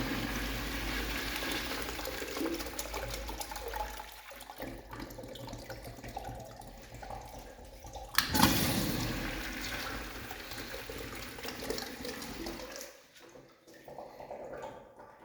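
Concealed brass Sloan flushometer valves flushing: a rush of water already running at the start and tapering off, then a second flush starting suddenly about eight seconds in and dying away some five seconds later.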